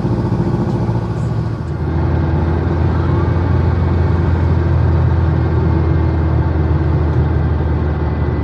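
Air-cooled Volkswagen Type 1 Beetle's flat-four engine running on the move, heard from inside the cabin along with road noise. Its note shifts about two seconds in and then holds steady.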